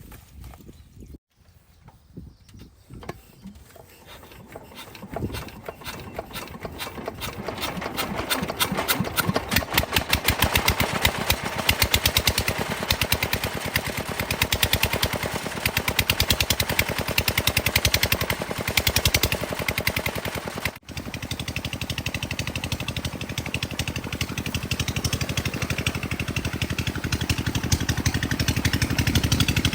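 Old water-pump engine starting up: separate slow beats speed up and grow louder over the first several seconds into a steady, fast putt-putt running rhythm. There is a brief drop-out about two-thirds of the way through before it carries on running.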